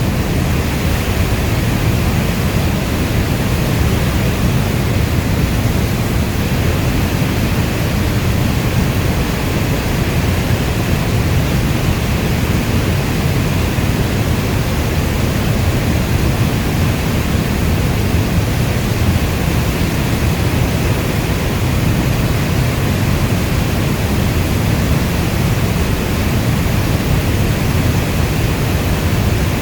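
Steady heavy rainfall: a dense, even hiss weighted toward the low end, with no thunder and no separate drops standing out.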